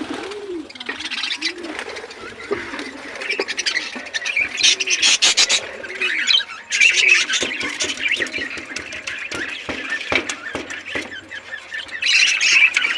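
Flock of budgies chattering and squawking continuously, with sharp squawks and clicks throughout. A lower call repeats underneath through the first part.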